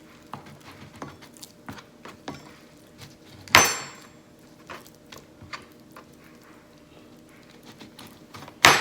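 A knife cutting around a raw chicken drumstick bone on a cutting board: many small clicks and scrapes, with two sharp knocks of the blade on the board, about three and a half seconds in and near the end.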